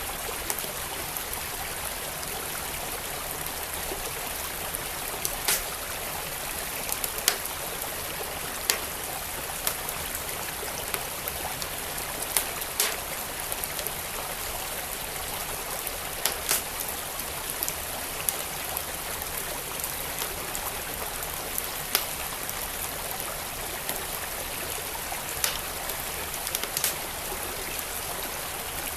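Wood fire crackling, with sharp pops at irregular moments every few seconds, over the steady rush of a flowing stream.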